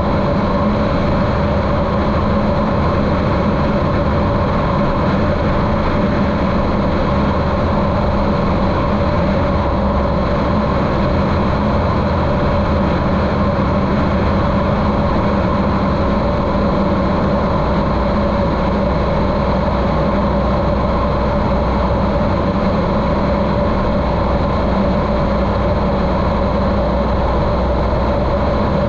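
Continental O-200 engine of a Cessna 150L running steadily in flight, a constant droning hum with propeller and wind noise, muffled by the GoPro's waterproof case.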